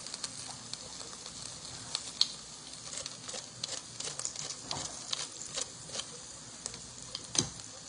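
Hot chicken wings sizzling, a steady hiss broken by many small pops and crackles of spitting fat.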